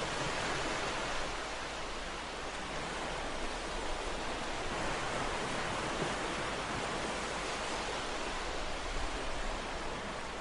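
Ocean waves washing on a shore, a steady surf hiss that swells and eases gently.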